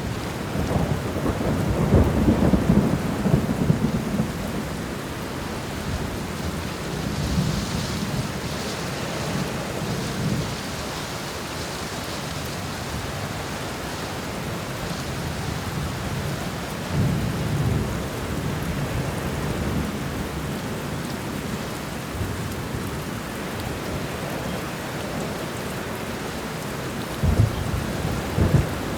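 Steady rain falling, with low rolling thunder that rumbles up several times, loudest in the first few seconds and again near the end.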